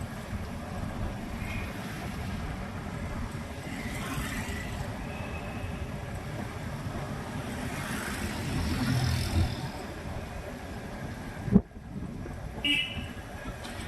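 Street traffic heard from a moving motorbike: a steady rumble of engines, tyres and wind, with faint passing tones. Near the end a sharp knock is followed shortly by a short high beep.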